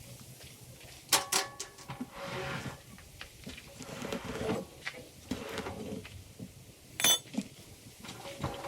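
Irregular metal clanks and scraping from hand work. There are sharp knocks a little after a second in, and one ringing metallic clank about seven seconds in.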